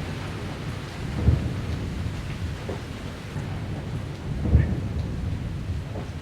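Thunderstorm: steady rain with a low, rumbling undertone of thunder, and two brief louder low thumps, about a second in and about four and a half seconds in.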